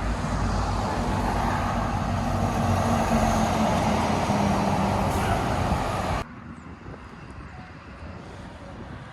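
Heavy truck engine running loud, with road and tyre noise. It cuts off suddenly about six seconds in to faint traffic.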